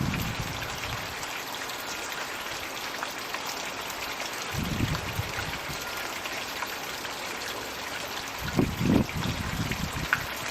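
Floating Magic Bucket water feature running in a garden pond: a steady trickle and splash of falling water. A few short low rumbles come through about halfway and again near the end.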